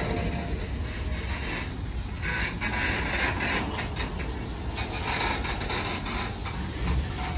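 Union Pacific train cars rolling past: a steady rumble of wheels on the rails, with irregular clicks and clacks.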